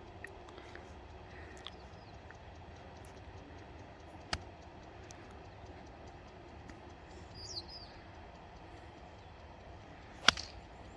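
Faint bird chirps over a quiet background, a small sharp click about four seconds in, then near the end one loud sharp crack of a golf club striking the ball.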